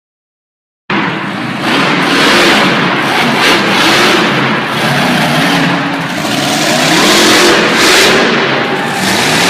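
Monster truck engine revving hard and loud, its pitch rising and falling again and again over a dense wash of noise. The sound cuts in suddenly about a second in, after dead silence.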